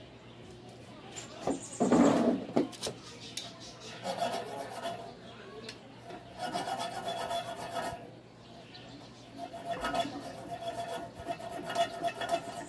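Hacksaw cutting through the steel muffler pipe of a motorcycle exhaust: rasping strokes in runs of a second or two, with short pauses between them.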